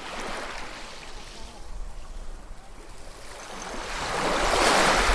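Ocean waves washing onto shore, with a softer wash early on and a wave building and surging loudest near the end.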